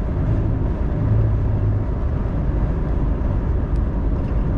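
Steady road and engine noise of a truck cruising at highway speed.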